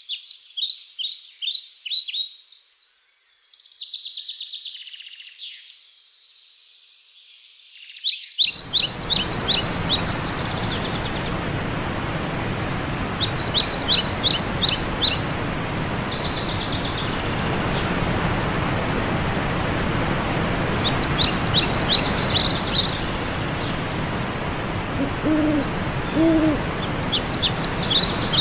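Songbirds singing in short, fast trilling phrases, joined suddenly about eight seconds in by the steady rush of running water. A few low hoots come in near the end.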